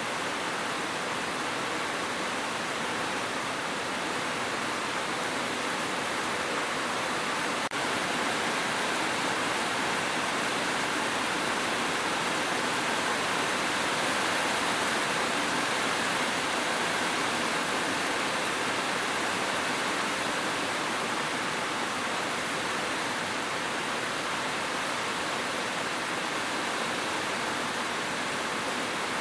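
Steady rain, an even hiss with no break or change in level. A single brief click about eight seconds in.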